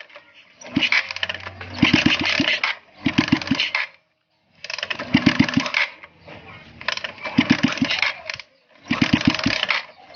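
Suzuki Shogun 125 motorcycle engine running after its restoration, revved in short bursts about a second long with brief drops between them.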